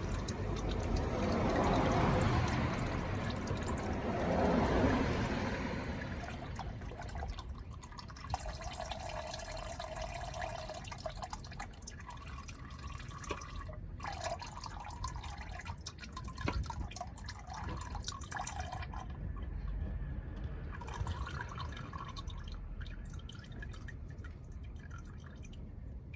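Engine oil draining from a car's engine and dripping into a pan: a heavier flow for about the first six seconds, then quieter, scattered drips.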